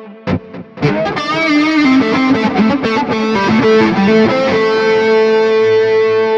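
Distorted electric guitar lead through a Neural DSP Mesa Boogie Mark IIC+ amp model with delay. After a couple of short picked strikes, it plays a fast run of notes with vibrato and bends, then holds one sustained note.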